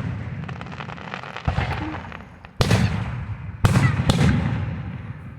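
Aerial fireworks shells bursting: four sharp bangs about a second apart, the last two close together, each followed by a rolling rumble that slowly fades.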